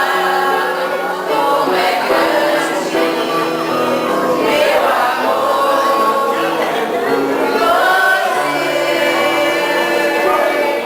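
Music with a choir singing in long held notes.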